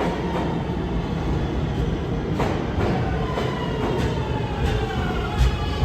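New York City subway train running, its motor whine sliding down in pitch as it slows, over a steady rumble with wheels clicking across rail joints. One sharp thump near the end.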